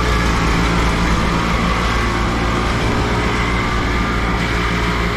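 Allis-Chalmers G tractor's small four-cylinder gasoline engine idling steadily with the fuel shut off, running the last of the gas out of the carburetor.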